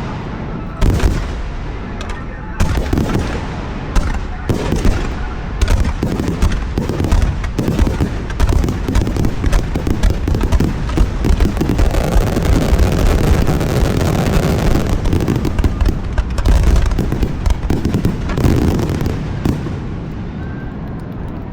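Fireworks display: aerial shells bursting one after another in sharp bangs. Partway through they thicken into a dense, continuous barrage, then thin out near the end.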